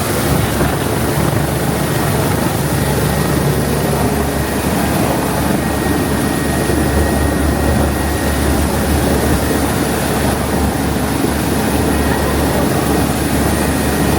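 Steady, loud aircraft engine drone that holds level without a break.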